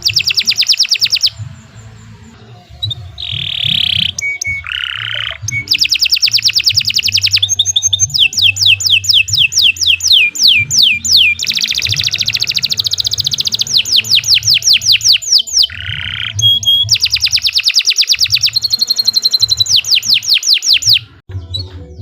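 Domestic canary singing a long, loud song of fast trills, each a quick run of repeated notes, broken by short buzzy notes and a few brief pauses.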